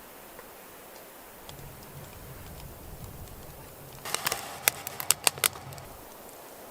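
A quick run of sharp clicks or crackles, about ten in a second and a half, over a steady faint hiss.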